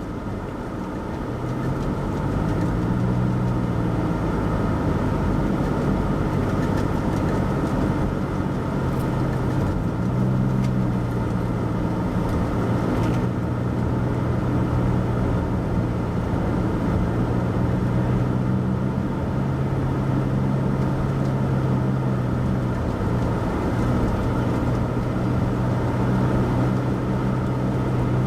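Car engine and tyre noise heard from inside the cabin while driving slowly; the engine note rises twice as the car speeds up, then holds steady.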